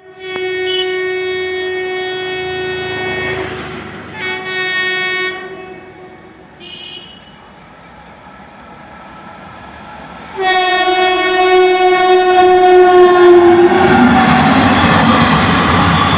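A train horn sounding a long blast, a shorter blast and a brief faint toot. Then a louder long blast a few seconds later, after which the train comes close with a loud rush of wheels on rail.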